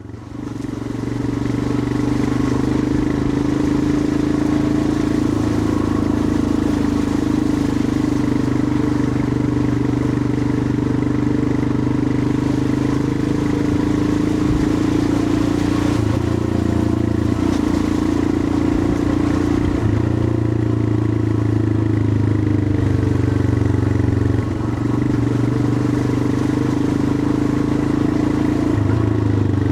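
Royal Enfield Himalayan 411's air-cooled single-cylinder engine running on the move, a steady thump whose note steps up and down a few times. It fades in at the start.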